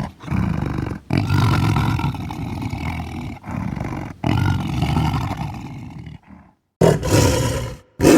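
Tiger roaring and growling in a string of deep, rough calls with brief breaks between them. The sound drops to silence for a moment near the end, then one more short, loud roar is cut off abruptly, as in spliced sound-effect clips.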